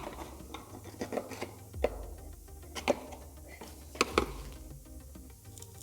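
Scattered sharp clicks and knocks as a glued-on bracket is worked loose from a car door panel, the loudest about two, three and four seconds in, over quiet background music.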